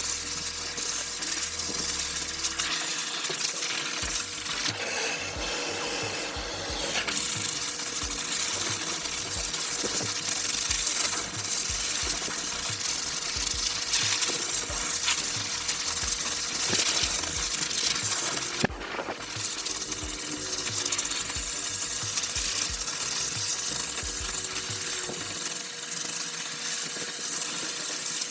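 Dog grooming dryer blowing steadily: a constant hiss with a steady hum underneath, and scattered light clicks and taps.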